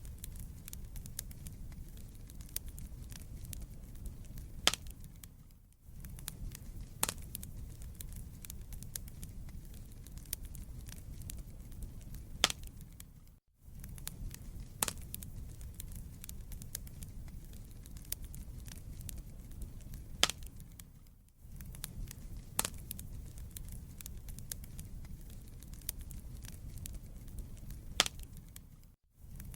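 Wood fire burning in a fireplace: a steady low rumble of the flames with frequent sharp crackles and pops from the burning logs. The sound drops out for a moment about every eight seconds.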